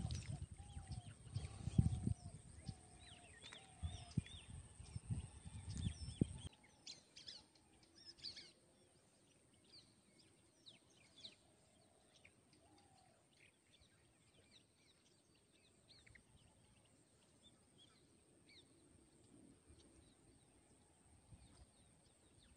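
Birds chirping with many short, scattered high calls, and a lower call repeated about once a second over the first few seconds. Under it is a low rumbling noise that stops suddenly about six seconds in, leaving only the faint bird chirps.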